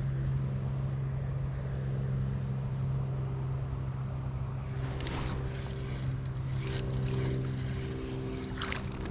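A motor or engine running steadily at one unchanging pitch, with a couple of brief rustling or splashing noises about five seconds in and near the end.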